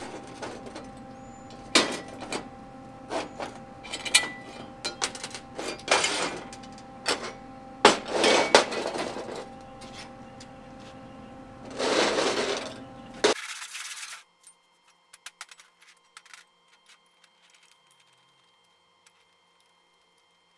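Steel parts and tools handled on a steel welding table: a string of irregular metal clinks and knocks, with a longer burst of noise about two-thirds of the way through. After that the sound drops suddenly to a faint background with scattered small ticks.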